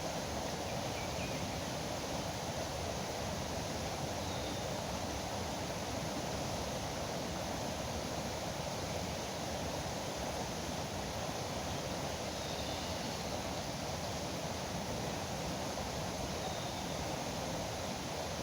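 Steady rush of flowing river water, with a few faint bird chirps now and then.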